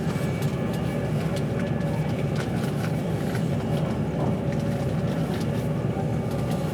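Steady rumble of a passenger train running at speed, heard from inside the carriage, with a few faint steady tones and light scattered ticks and clicks on top.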